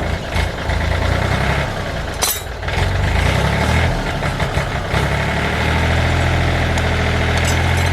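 Repaired tractor engine running steadily on its test run. A short sharp noise comes about two seconds in.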